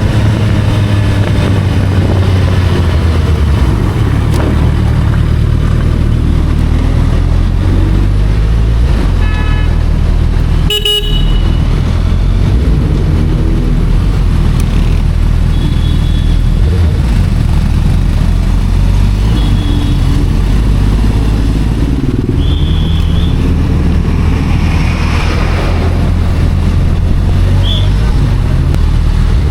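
Sportbike engine running steadily while riding, its pitch shifting in steps as speed and gear change. Several short vehicle horn toots sound through it, and there is a brief knock about eleven seconds in.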